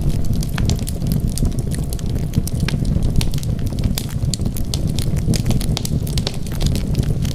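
Wood fire burning steadily with a low rumble and frequent sharp crackles and pops of the burning wood.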